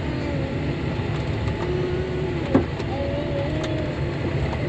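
Tractor engine running steadily, heard from inside the cab while the tractor turns in the field, with one short knock about halfway through.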